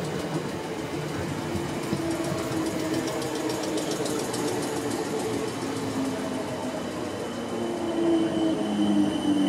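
South West Trains suburban electric multiple unit running past alongside the platform, its wheels and motors giving a steady rumble and hum; near the end it gets louder and a high, steady squeal joins in.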